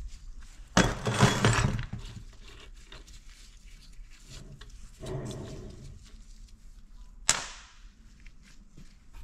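Metal tools and parts clattering and scraping as a gear is worked off a diesel engine governor's shaft: a loud clatter about a second in, a softer rattle midway, and one sharp metallic clink near the end.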